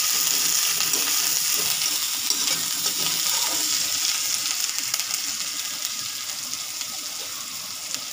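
Chopped onion, curry leaves and red chillies sizzling in hot mustard oil in a kadhai while the onion is lightly fried, with a few light scrapes of a metal spatula in the first seconds. The sizzle is loudest at first and slowly dies down.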